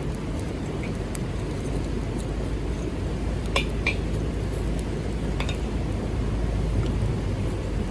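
Light metallic clinks of camp cookware or utensils being handled: two close together about three and a half seconds in and a fainter one near five and a half seconds. They sit over a steady low rumble.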